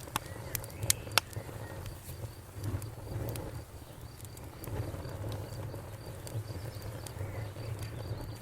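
Campfire crackling, with several sharp pops in the first second or so over a steady low rumble, and a faint high chirp repeating evenly several times a second, typical of an insect.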